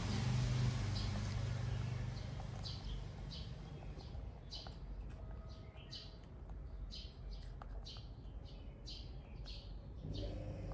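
Small birds chirping: short high chirps, about one or two a second, starting about three seconds in. A low hum fades out over the first two seconds.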